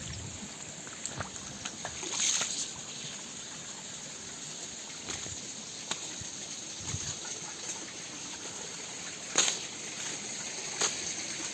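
Shallow mountain stream trickling steadily over stones, with a few brief sharp knocks or splashes, the loudest about nine seconds in.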